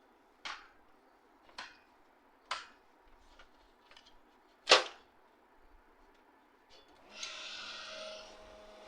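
Separate sharp clicks and knocks as printer parts are handled during repair: four strikes, the fourth much the loudest, then about a second of scraping hiss near the end.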